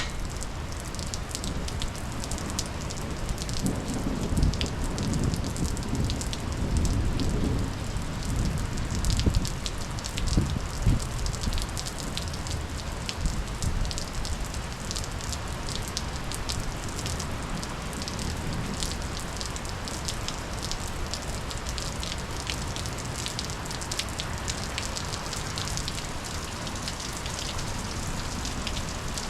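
Monsoon rain falling steadily, a constant hiss dotted with many separate drop ticks on nearby surfaces. A low rumble swells and fades between about four and eleven seconds in.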